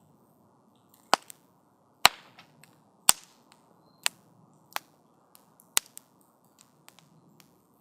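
Wood fire crackling: sharp pops and snaps from the burning wood, about one loud pop a second with small ticks between, over a faint soft hiss of the flames.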